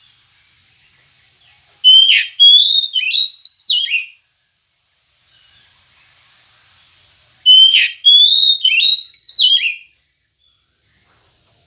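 Oriental magpie-robin (kacer) singing: two loud phrases of clear whistled notes with quick rising and falling slurs, the first about two seconds in and the second about seven and a half seconds in.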